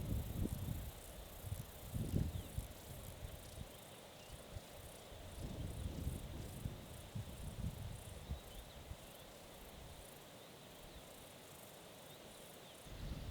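Rain pattering, with irregular low thumps and rustling from handling gear close by; the thumps are strongest in the first few seconds and die away near the end.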